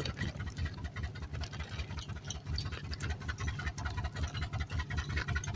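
Hail pelting a truck: many irregular sharp ticks and taps over a low, pulsing rumble.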